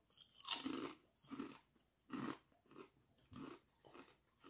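A person biting into and chewing a thick kettle-cooked potato chip. There is one crisp crunch at the bite, then a run of softer crunches about every half second as it is chewed.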